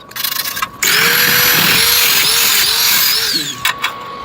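A handheld power tool's motor runs for about three seconds, starting about a second in. Its whine dips in pitch and recovers several times as the tool is loaded, then it stops.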